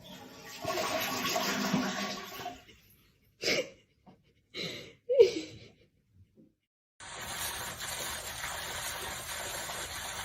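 A few short separate sounds, the loudest a brief pitched cry about five seconds in, then, after a gap, water suddenly starts rushing steadily, like a tap or toilet running.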